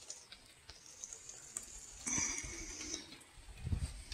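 Steady rain falling, with scattered drops ticking. About two seconds in, a brief louder sound lasting under a second rises above the rain.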